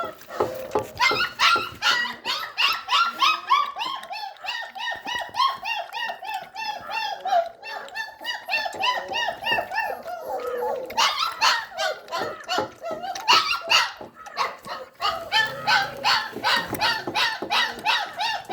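Puppies yapping and barking in play: many short high-pitched calls in quick succession.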